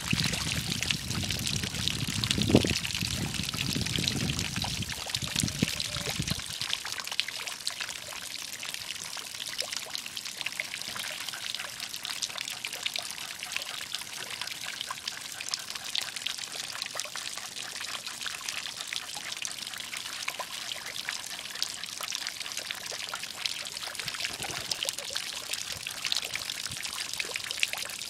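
Water pouring and trickling steadily, with a low rumble under it that stops about six seconds in.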